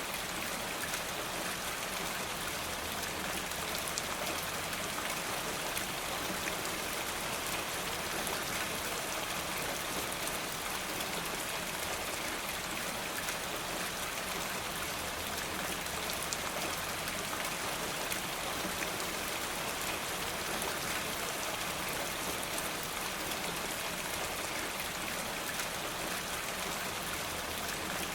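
Steady rain falling, with occasional faint crackles from a wood fire.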